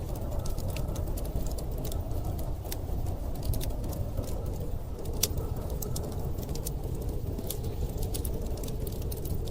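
Wood fire crackling with frequent sharp pops, over a steady low rumble of storm wind.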